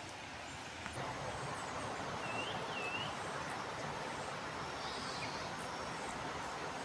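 Steady outdoor background noise, a soft even rushing, with two short curved chirps from a bird a little over two seconds in.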